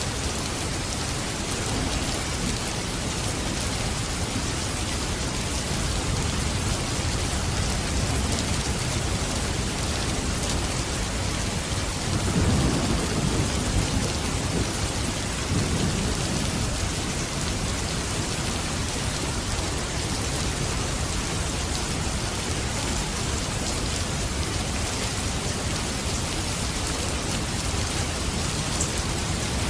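Steady heavy rain falling and spattering on surfaces. About halfway through, a low rumble of thunder swells for a few seconds, then fades back under the rain.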